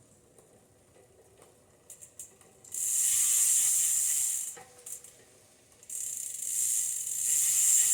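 Bicycle rear-hub freewheel ratchet buzzing as the freshly lubed drivetrain is turned: a dense, high-pitched pawl buzz starting about three seconds in, pausing briefly, then returning louder near the end.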